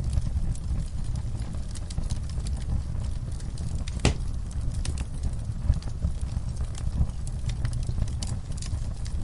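Fire burning in a fireplace: a steady low rumble with frequent sharp crackles and pops, one louder pop about four seconds in.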